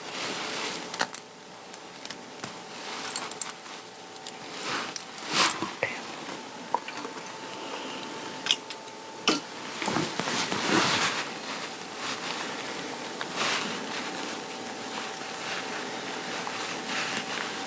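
Hands handling and working costume materials: rustling fabric with many small irregular clicks and taps, over a faint steady hum.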